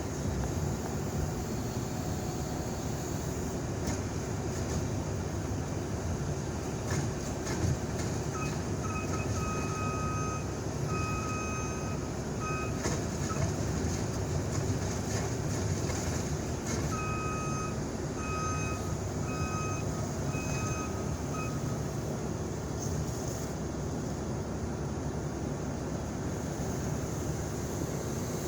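Heavy truck engine running steadily. A reversing alarm beeps over it in two spells, starting about a third of the way in and again past the middle.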